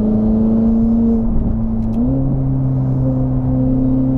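Ferrari 488 GTB's twin-turbo V8 running through an aftermarket exhaust while driving, heard from inside the cabin: a steady engine drone whose pitch steps up about two seconds in.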